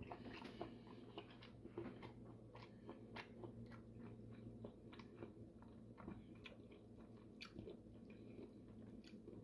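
A person chewing a mouthful of grilled parrotfish, with faint, irregular mouth clicks and smacks over a low steady hum.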